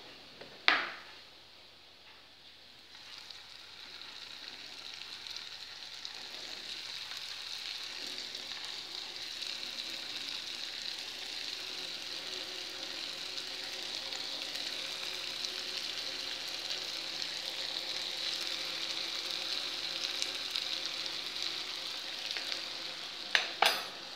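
Pieces of maqrout dough deep-frying in a pan of hot oil: a steady sizzle that starts a few seconds in and slowly grows louder as the oil bubbles around them. There is a sharp knock about a second in and two more sharp knocks near the end.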